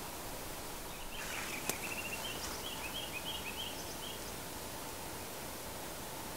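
A small bird calling a quick run of short chirping notes for about two seconds, over a steady outdoor hiss, with a brief rustle and a click just before the calls begin.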